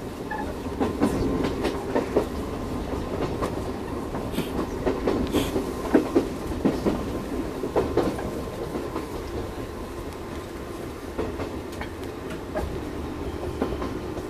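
Chichibu Railway 1000 series electric train running, heard from the cab: the wheels clatter over rail joints and pointwork in irregular knocks over a steady running hum. The clatter is busiest in the first half.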